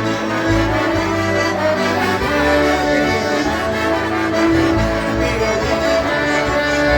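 Several concertinas playing an oberek together, with sustained chords over a bass line that changes note about every half second.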